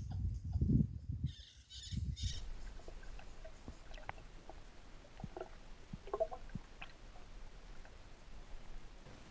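Muffled underwater sound picked up by a submerged camera in a stream: low thumps and rumbling for about two seconds, then a faint hiss with scattered small clicks and pops.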